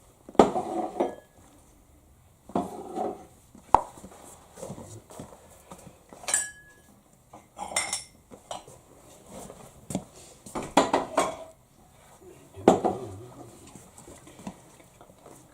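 Intermittent clatter and clinks of hard objects being handled, in a dozen or so separate short knocks and rattles with quiet gaps between them.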